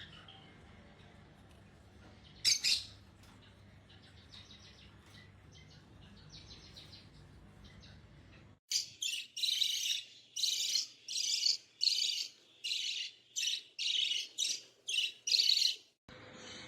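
A pet parrot squawking: one harsh squawk about two and a half seconds in, then a rapid series of short, harsh squawks, about two a second, through the second half.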